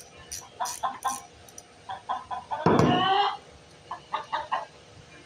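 Chickens clucking in a run of short clucks, with one loud, short squawk about two and a half seconds in and a few more clucks after it.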